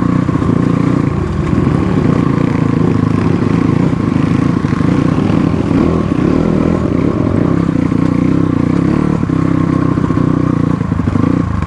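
Motorcycle engine running at a steady pace, with frequent small knocks over it.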